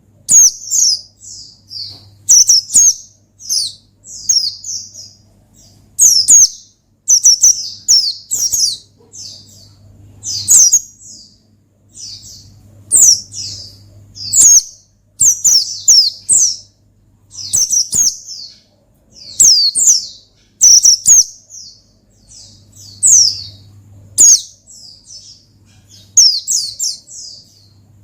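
White-eye (pleci) singing loudly in high-pitched chirping phrases. Each phrase is a quick string of falling notes, and the phrases repeat every second or two.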